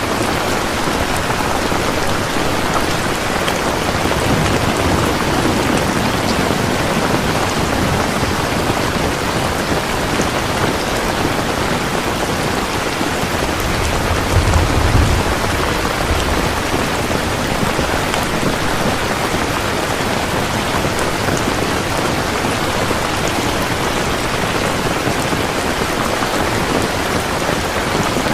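Steady rain falling, an even hiss of drops, with a brief low rumble about halfway through.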